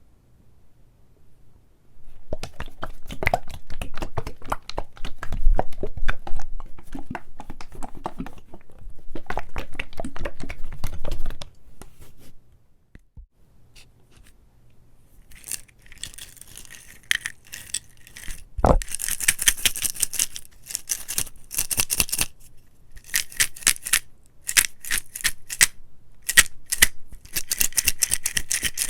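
Close-miked crackling and crinkling from an object being handled, in two runs: a fuller, rougher one, then after a short pause a crisper, brighter one with a sharp click partway through.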